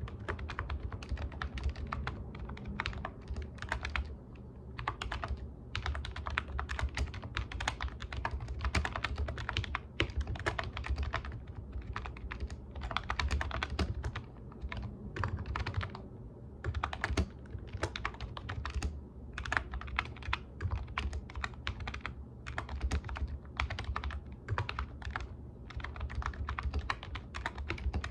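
Computer keyboard being typed on in quick runs of keystrokes with short pauses between bursts, over a low steady hum.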